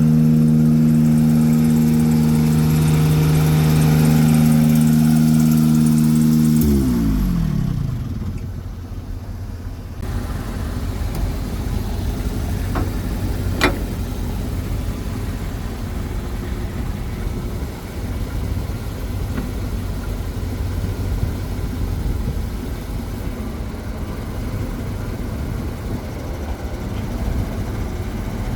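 The truck's 8-litre gas engine running steadily at raised revs, then dropping back about seven seconds in and settling to a low, steady idle rumble. A single sharp click about halfway through.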